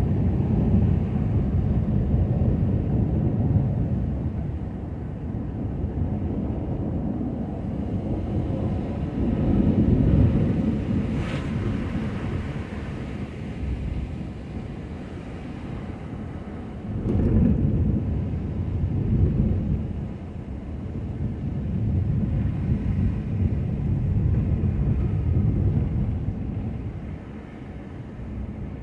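Ford F-250 plow truck running: a low, uneven rumble that swells and fades, with a sharp knock about 11 seconds in and another about 17 seconds in.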